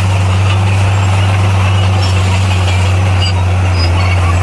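Heavy diesel earthmoving machine engine running steadily with a constant low hum.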